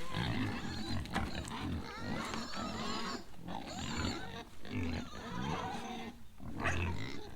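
Several pigs grunting and squealing, noisy because they expect to be fed.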